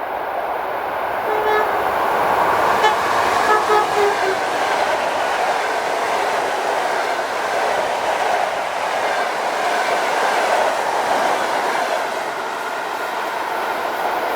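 Electric train passing at close range, its wheels on the rails making a steady, loud rolling noise. A few short pitched tones sound between about one and a half and four seconds in.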